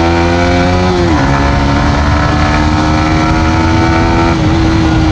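Yamaha MT-15 V2's single-cylinder engine pulling under throttle on the stock exhaust: its pitch climbs, drops suddenly about a second in at a gear change, climbs again and eases off a little near the end. Low wind rumble on the microphone underneath.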